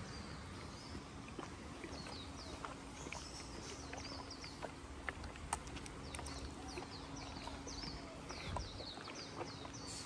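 Birds chirping in quick runs of short, high notes, repeated again and again, over a steady low hum and faint rumble. Light, irregular clicks of footsteps on pavement.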